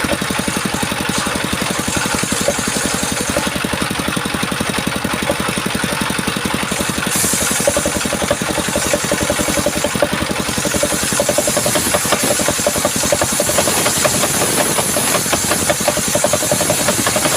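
Engine of a homemade circular-saw sawmill running steadily with a fast even pulse, under a high hiss that swells about seven seconds in and again from about ten seconds on.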